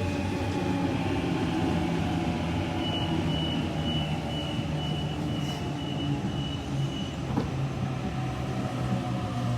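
Sydney Waratah (A-set) electric train at the station platform, giving a steady low hum. About three seconds in, a rapid high-pitched beeping runs for about four seconds, and a single knock comes near the end.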